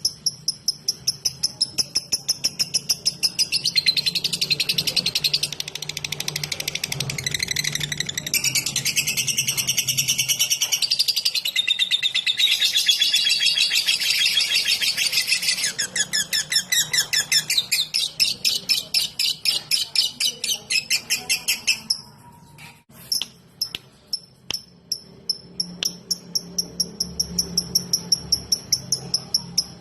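Lovebird 'ngetik' song: a long run of rapid, evenly spaced, high-pitched ticks, thickening into dense warbled chatter through the middle. It breaks off briefly to a few lone clicks after about twenty-two seconds, then resumes.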